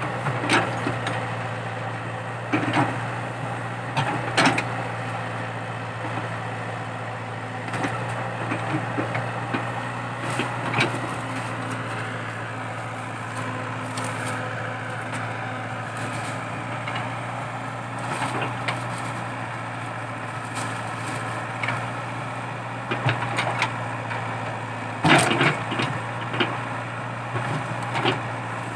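Komatsu PC80 excavator's diesel engine running steadily under load while digging out a eucalyptus stump, with sharp cracks and knocks from the digging now and then. The loudest crack comes near the end.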